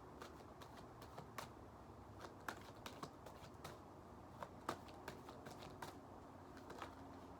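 Tarot cards being shuffled and handled by hand: an irregular run of light clicks and snaps, a dozen or so spread over several seconds.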